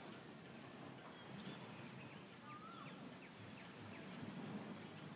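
Faint outdoor ambience: scattered small bird chirps and one short warbled note over a low, steady background hiss.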